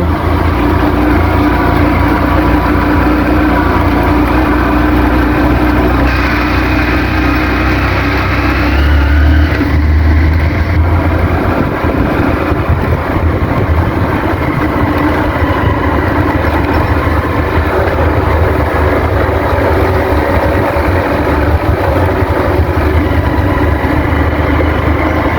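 Motorcycle engine running under way, with heavy wind rumble on the microphone.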